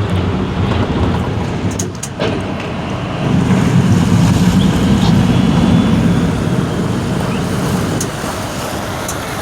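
Motorboat engine running with a steady low hum over rushing noise, growing louder about three seconds in and easing off again near eight seconds.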